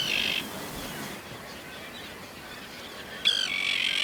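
Terns calling: harsh, grating calls, one right at the start and another about three seconds in.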